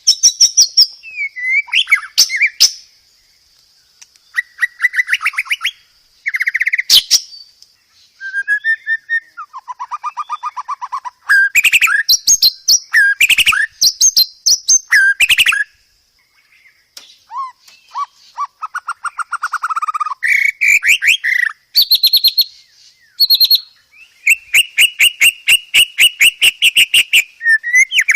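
White-rumped shama (murai batu) singing a loud, varied song full of mimicked phrases: whistles, quick trills and fast runs of repeated notes, with short pauses between bursts.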